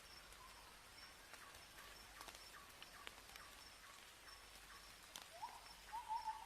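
Faint forest ambience of birds: small repeated short notes and scattered light ticks, then about five seconds in a louder whistled bird call that rises and then holds, sliding slowly down.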